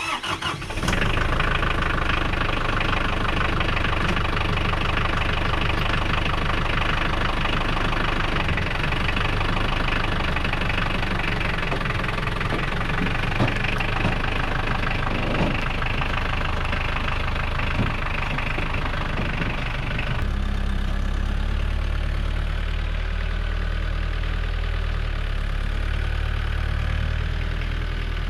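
Tractor engine starting abruptly and running steadily. About twenty seconds in, the higher part of the sound drops away and it runs on lower and steadier.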